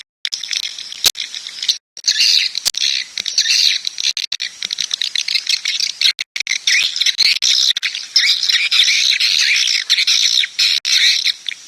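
Swiftlet call recording playing: a dense, continuous stream of high chittering chirps, broken twice by brief abrupt drops to dead silence where the recording has been cut.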